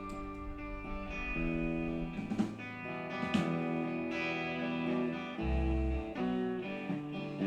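Guitar playing sustained chords and single notes, loosely and without a steady beat, with a short deep low note about five and a half seconds in.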